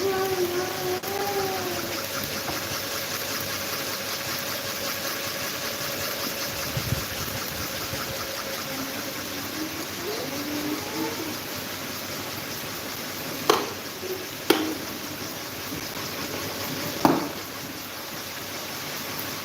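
Electric table fan running with a steady whooshing hiss, broken by three sharp clicks in the second half, the first two about a second apart.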